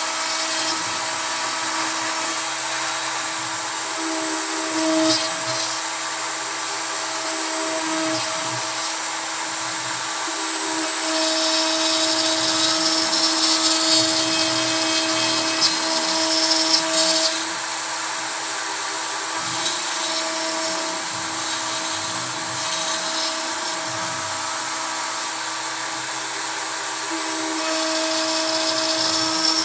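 CNC router running: a Kress router spindle whines at high speed while a 3 mm end mill cuts scrap pine. Its tones shift and switch on and off as the machine moves. The cutting gets louder and brighter for several seconds in the middle.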